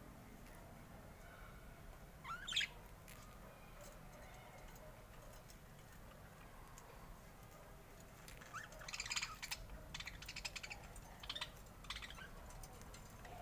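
Budgerigar chirping, faint: one quick rising chirp about two seconds in, then a run of short chirps and chatter from about eight to twelve seconds in.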